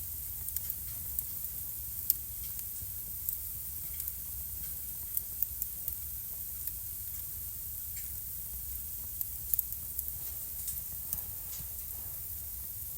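Wood fire burning in a fireplace: a steady soft hiss and low rumble with scattered sharp crackles and pops, the loudest about two seconds in and near the ten-second mark.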